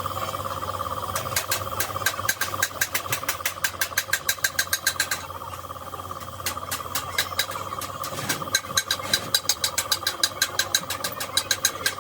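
Rapid, even mechanical clicking, about nine strikes a second, in two runs of a few seconds each with a short break between, over a steady machine hum.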